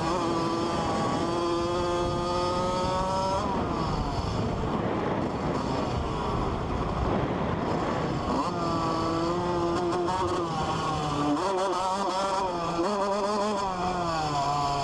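Dirt bike engines running under throttle, the pitch climbing steadily for a few seconds, then rising and falling with the throttle over the second half.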